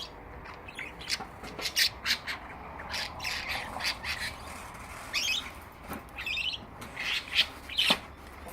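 Budgerigars chattering: a quick, irregular run of short, harsh squawks and warbling chirps.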